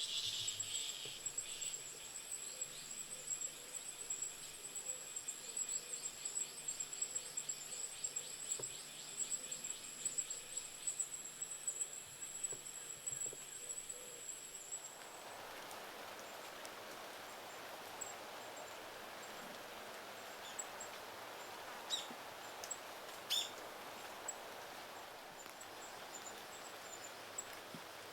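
Insects calling outdoors, a steady high-pitched buzz with a fast pulsing trill under it. About halfway through it changes abruptly to a steady rushing outdoor noise with a couple of short, sharp chirps.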